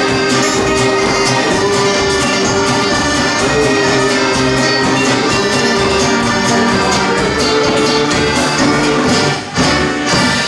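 Live band playing an instrumental break between sung verses, with held melody notes over a steady beat. The music drops out for a moment about nine and a half seconds in, then comes back.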